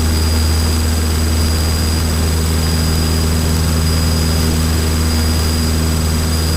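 A small single-engine Cessna's piston engine and propeller droning steadily at climb power, heard from inside the cockpit, with a few faint steady high-pitched whines over the drone.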